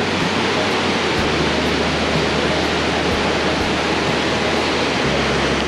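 Steady, loud rush of Burney Falls, a large waterfall pouring into its plunge pool.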